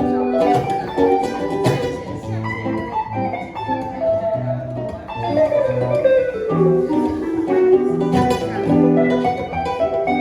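Acoustic guitar and electric guitar playing together in an improvised instrumental passage, strummed chords under held, sliding lead notes.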